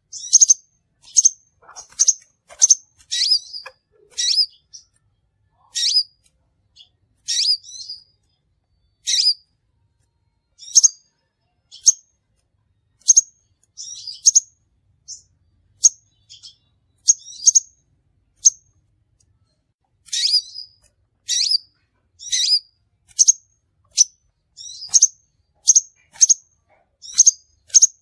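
Crimson sunbird calling: short, sharp, high chips repeated at irregular intervals of about half a second to a second, with a few pauses of a second or two.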